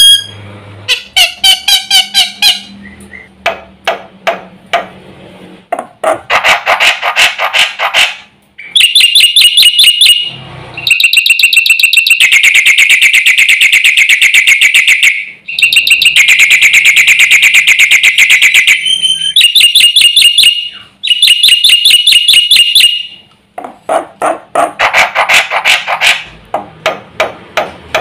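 Black-winged myna (jalak putih) singing loudly in long runs of rapid, harsh repeated notes and trills, with short breaks between phrases, its song full of mimicked phrases.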